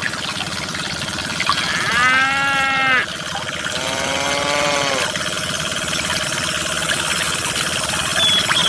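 Two farm-animal calls, each about a second long: one about two seconds in and a lower-pitched one about a second later. A steady background hum runs underneath.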